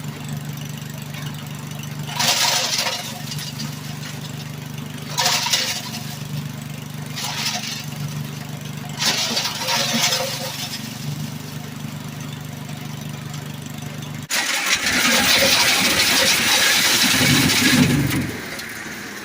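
Mackissic Mighty Mac wood chipper's engine running steadily, with four short bursts of chipping noise as wood is fed through. About three-quarters of the way in, the sound switches abruptly to a louder, noisier stretch of chipping lasting a few seconds.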